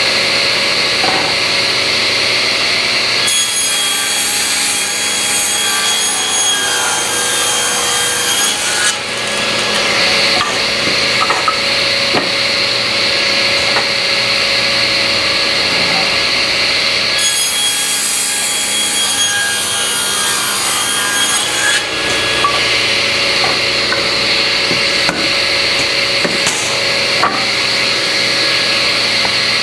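Table saw running and ripping wooden stiles lengthwise. The blade goes through the wood twice, each cut lasting about five or six seconds, over the saw's steady running whine.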